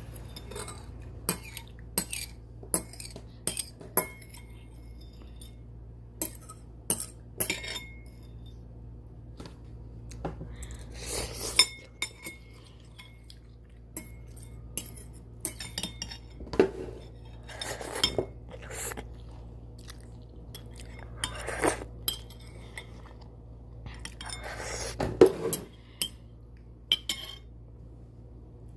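Eating utensils clicking and clinking against a ramen pot or bowl, over and over at irregular intervals, with a few longer slurps of noodles about a second each.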